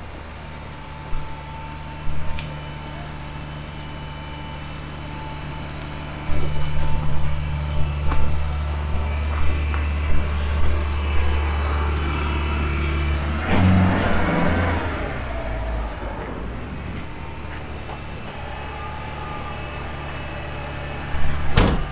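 Maruti Gypsy 4x4's four-cylinder petrol engine labouring as the car struggles through deep snow, its note stepping up louder about six seconds in and holding there for several seconds, with a short burst of noise around fourteen seconds before it settles back to a lower steady run. A single sharp knock comes near the end.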